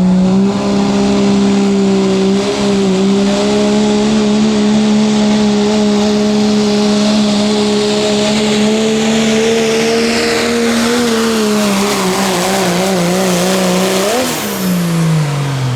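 Diesel pickup truck engine in the 2.6 class running at a steady high pitch under load for about eleven seconds while pulling the sled. The pitch then sags and wavers, jumps briefly near the end and falls away quickly as the revs drop off.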